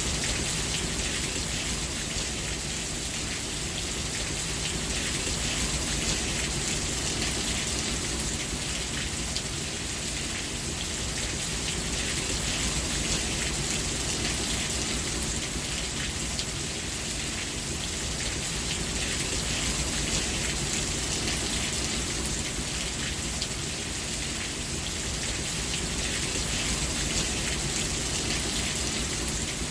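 Steady rain falling: a dense hiss of countless small drop impacts with a low rumble beneath, gently swelling and easing in level.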